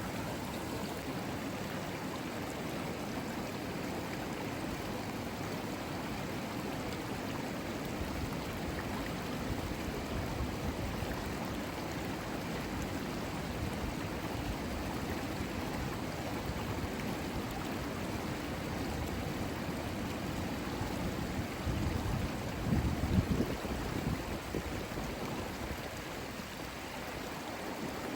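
Saluda River water rushing steadily. A brief louder low rumble comes in about three quarters of the way through.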